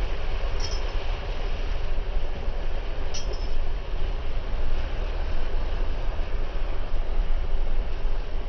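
Vehicle driving along a dirt two-track road: a steady rumble of engine and tyres, with two faint ticks about half a second and three seconds in.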